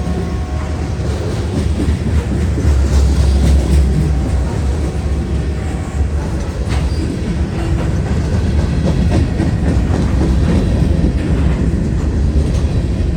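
Union Pacific train rolling past close by: a steady low rumble with wheels clicking over the rail joints.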